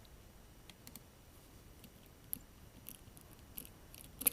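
Faint, sparse clicks of a small precision screwdriver turning a tiny screw into the phone's plastic internal panel, with one sharper click near the end.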